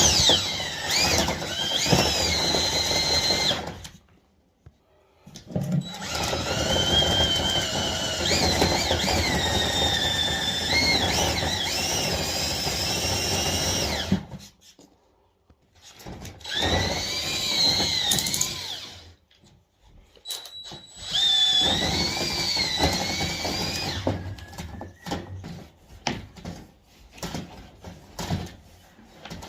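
A power drill spinning a rotary dryer-vent cleaning brush through the duct. It runs in four stretches of a few seconds each, separated by short stops, and the motor whine wavers up and down in pitch as the brush meets resistance. Scattered knocks and clicks follow near the end.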